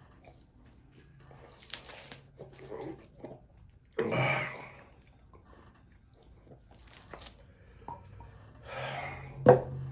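A man chewing a fried chicken wing hot with scorpion-pepper sauce, with small mouth clicks and a loud puff of breath about four seconds in. Near the end a glass hot sauce bottle is shaken over the wing and set down with a sharp knock on the table, the loudest sound.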